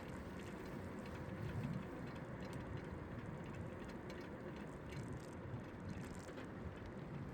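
Bicycle freewheel hub ticking as the rider coasts, over a steady low rumble of wind and road noise.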